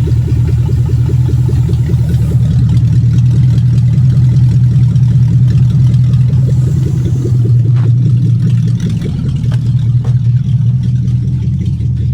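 Lexus 3UZ-FE 4.3-litre V8, swapped into a Mercedes C230 coupe, idling steadily and loudly, its level dropping slightly about nine seconds in. It is holding idle on a constant fuel supply, with the fuel relay wire looped so the Mercedes computer no longer cuts the fuel.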